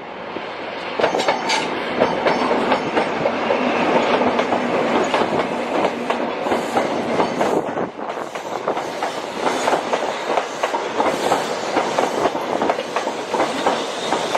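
A train running through on the rails, its wheels clicking rapidly and continuously over rail joints; the sound builds over the first couple of seconds.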